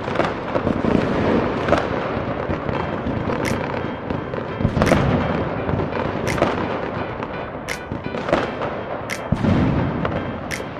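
Fireworks shells bursting in a string of sharp cracks about every second or so, with deeper booms about five and nine seconds in, over background music.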